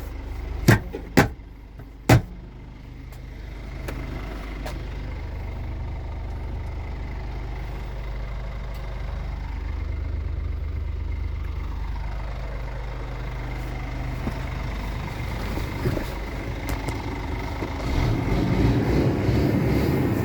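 Scania R450 truck's 13-litre six-cylinder diesel idling steadily, with three sharp clicks in the first two seconds. The engine gets louder and rougher near the end.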